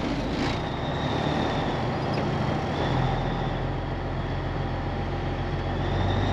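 Cabover semi truck's diesel engine running steadily while driving. Its low note strengthens about three seconds in, with a faint high whine above it.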